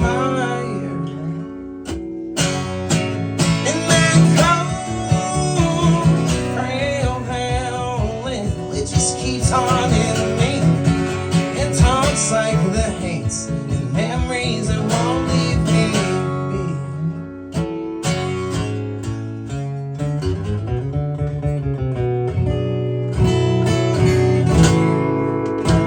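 Live acoustic music led by a strummed acoustic guitar, with a wavering melodic line over the chords and no sung words.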